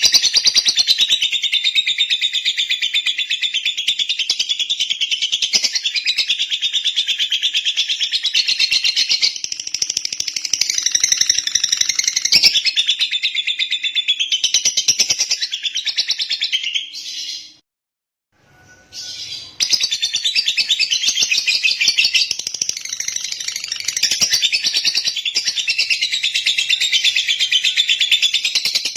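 Lovebird singing in a long, fast, continuous high-pitched chatter. It breaks off for about two seconds a little past halfway, then resumes.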